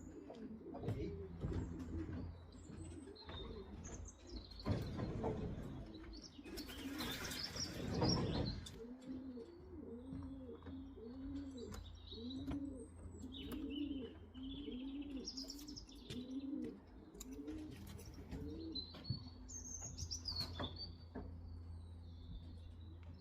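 Racing pigeons cooing in the loft: a run of repeated low, arching coos, about one a second, through the middle of the stretch. High chirps come and go throughout, and a noisy rustling burst stands out about five to eight seconds in.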